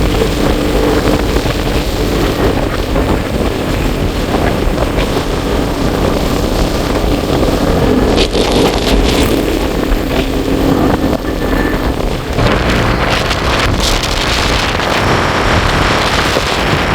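A vehicle's engine running while driving along, its pitch shifting, with wind buffeting the microphone; about two-thirds of the way through the engine fades under a louder rush of wind and road noise.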